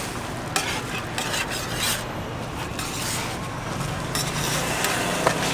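A metal utensil scraping and stirring against metal, with irregular strokes and a few clinks, over a steady low hum while toast is being cooked.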